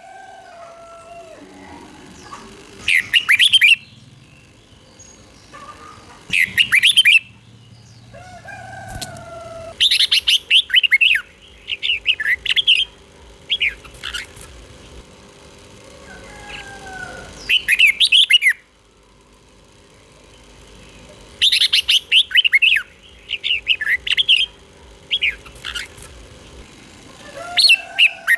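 Red-whiskered bulbul singing loud, short phrases of quick chirping notes, repeated every few seconds, with softer whistled notes in the gaps.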